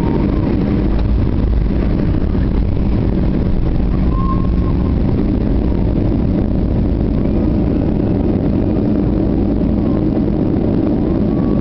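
Steady, loud rumble of an Airbus A320's engines and airflow heard from inside the passenger cabin, deepest at the low end and holding level throughout.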